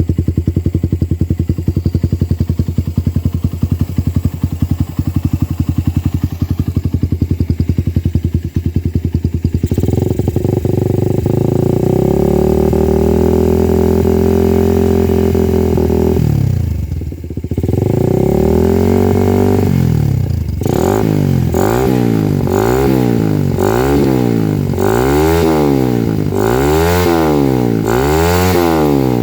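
Suzuki Satria FU 150 cc carburetted four-stroke single running through a CLD Performance racing exhaust. It idles with a steady, even pulsing, then is held at raised revs for several seconds and drops back. For the last third it is blipped up and down about once a second.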